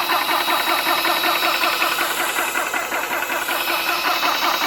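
ToAuto A3 PCP high-pressure air compressor running steadily with a fast, even pumping rhythm and a steady high whine, near the end of a fill as the tank approaches 3,000 psi.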